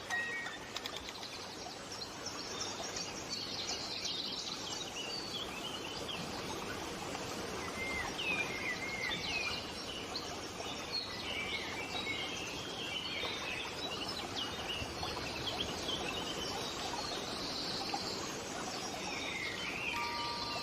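Many birds chirping and singing over a steady hiss of background noise. Brief music-box notes sound near the end.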